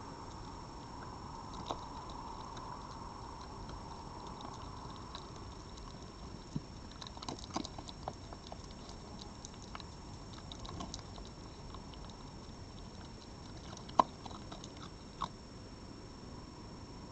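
An animal chewing and crunching food, heard as scattered sharp clicks over a steady hiss, the loudest click about fourteen seconds in.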